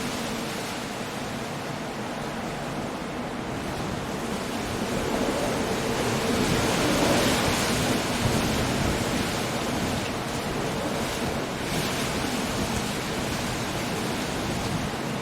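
Storm surf on a rocky coast under steady wind: a continuous rushing of sea and wind, with one wave swelling up and breaking in the middle before easing back.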